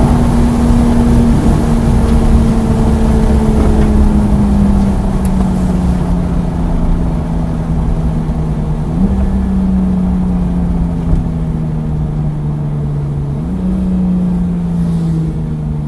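Porsche 911 GT3 (991.1) flat-six running on track, its engine note falling steadily as the car slows. Two downshifts, about nine and thirteen seconds in, lift the pitch before it falls away again.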